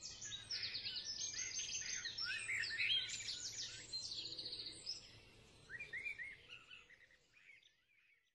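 Songbirds singing: a dense run of fast trills and chirps that thins out and fades away over the last couple of seconds.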